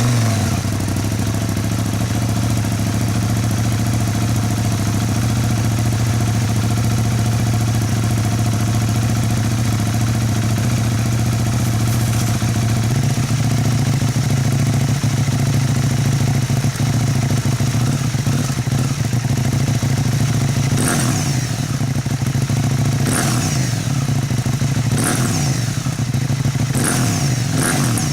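KTM 790 Duke's parallel-twin engine, fitted with an HP Corse EvoXtreme exhaust, idling steadily just after starting. The idle steps up a little about halfway through. In the last several seconds the throttle is blipped repeatedly, the revs rising and falling in quick bursts.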